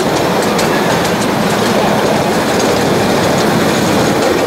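Passenger cars of a 15-inch gauge ride-on railroad rolling along the track: a steady, loud rumble of wheels on rails, with a few light clicks near the start.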